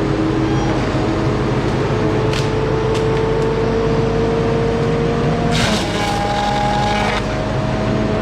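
An engine running steadily, its pitch drifting slowly upward and then shifting a little over halfway through, with a brief rush of noise at about the same point.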